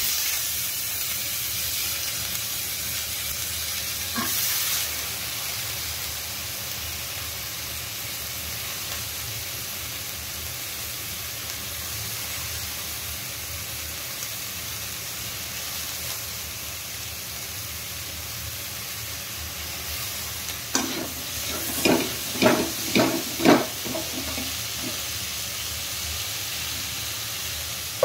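Raw cauliflower florets dropped into a hot pan of oily, spiced potatoes: the sizzle jumps up at once as they hit, then runs on as a steady frying hiss. Between about 21 and 24 s the spatula knocks and scrapes against the pan five or six times as the vegetables are stirred.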